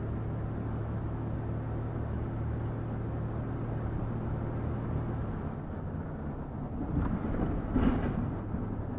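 Vehicle engine and road noise droning steadily at low speed; the hum drops in pitch about five seconds in. Near the end a louder rush of noise swells and fades.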